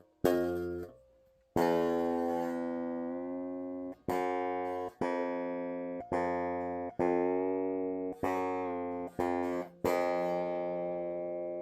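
Unamplified Solar 27-inch baritone electric guitar string plucked about nine times while it is tuned after new strings are fitted. Each note rings and fades, and the pitch wavers once midway.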